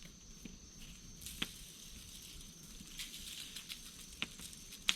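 Tony Chachere's seasoning being shaken from its canister onto potatoes in tinfoil: a faint soft pattering hiss with a few scattered ticks.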